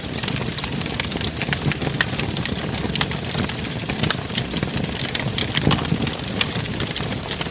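Wood fire crackling in a fireplace: dense, irregular snaps and pops over a steady low rumble of the flames.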